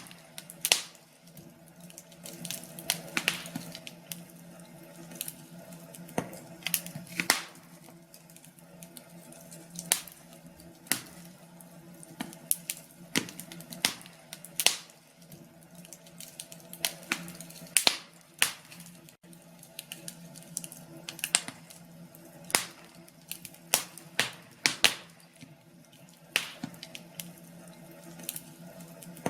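Log fire crackling, with irregular sharp pops of varying loudness over a faint steady low hum.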